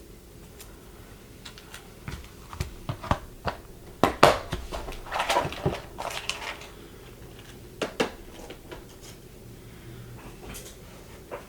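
Plastic packaging being handled and opened at close range: a run of sharp clicks and short crinkling rustles, busiest about four to six seconds in, with one more click near eight seconds.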